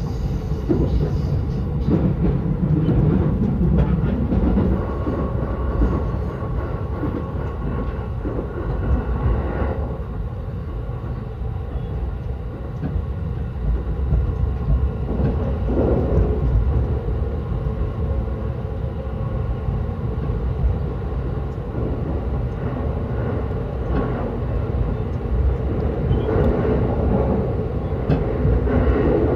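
Yokosuka Line electric train running between stations, heard from inside the car: a steady rumble of wheels on rail with faint motor tones and occasional knocks.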